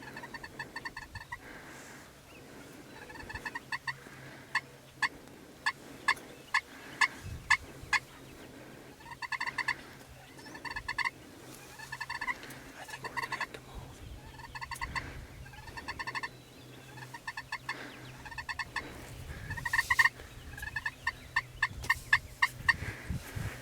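Turkey yelping and clucking: runs of short, sharp notes that come again every couple of seconds, with a few louder single notes in between.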